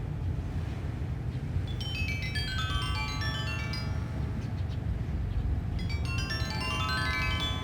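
Sanukite stone xylophone playing quick pentatonic runs of bright, ringing notes: one cascading downward about two seconds in and one sweeping upward near the end. Under it, a steady low rumble of wind blowing on the beach.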